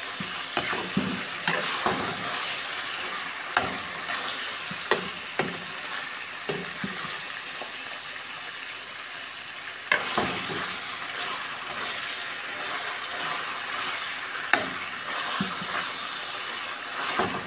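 Sliced liver and garlic frying in hot oil in a wok, sizzling steadily, while a metal ladle stirs it and clinks against the wok several times.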